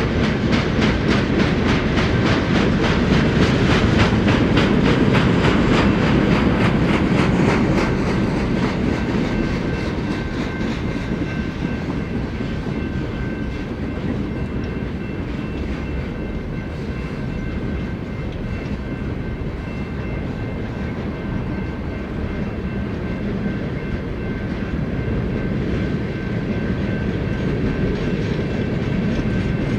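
Freight cars of a military train rolling past, with wheels clacking steadily over the rail joints. The clacking is loudest for the first several seconds and then eases a little, and a faint, steady, high whine runs under it from about ten seconds in.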